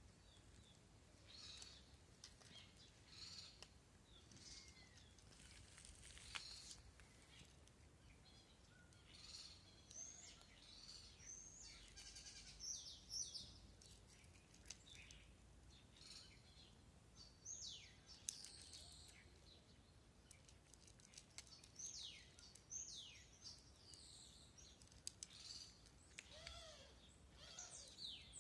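Faint outdoor birdsong: many short, high chirps that fall in pitch, coming in scattered clusters throughout.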